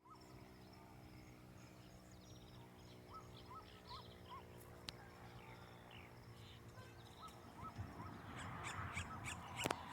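Several birds calling with short repeated notes over a steady low hum, with a run of clicks near the end and one sharp click just before it ends.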